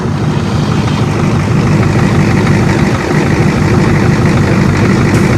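1985 Ford F-350's 6.9-litre IDI V8 diesel engine idling steadily.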